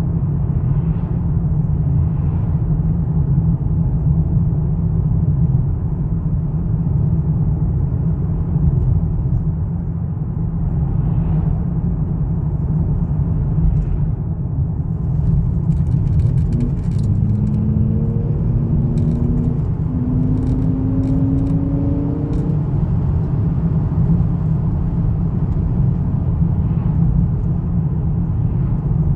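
Volvo V70's 2.4-litre naturally aspirated five-cylinder engine running with a steady deep rumble. Partway through, its note rises twice with a short break between.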